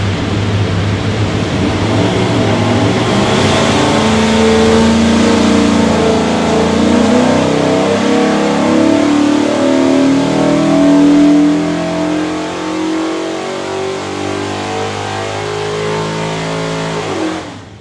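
533 hp 363ci small block Ford V8, carbureted, making a dyno pull: it runs steadily at first, then its revs climb smoothly under load for several seconds to a peak about eleven seconds in. It then drops back to a lower, even speed and cuts off sharply near the end.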